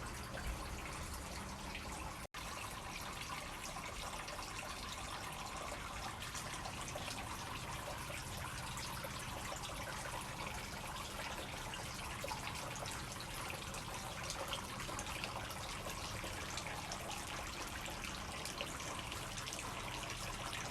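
Three-tier polyresin bird bath fountain running, with water trickling and splashing steadily down its tiers. The sound cuts out for an instant a couple of seconds in.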